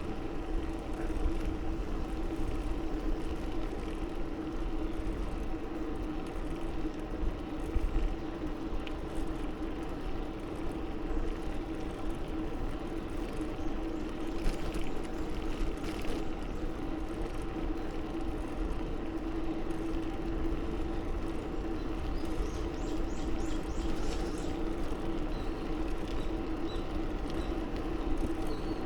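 Wind on the microphone and tyre noise from a bicycle riding along a paved path, with a steady hum throughout and a brief run of light high ticks near the end.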